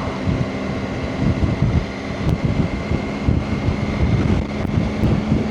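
Motorcycle engine running at a steady cruise, with wind buffeting the microphone.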